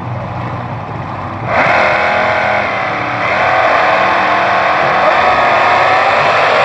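Front-engine drag racing car's V8 engine running, then opened up sharply about a second and a half in and held at high revs, loud, with a brief dip in the revs around the middle.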